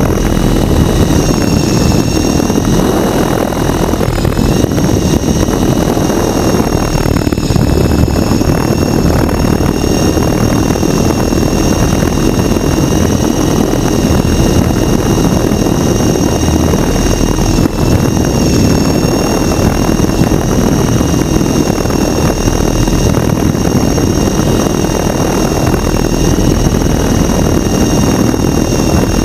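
H853 Hero RC helicopter in flight: its electric motor's steady high whine over the rush of the spinning rotor blades, wavering slightly in pitch, with a brief dip about 18 seconds in.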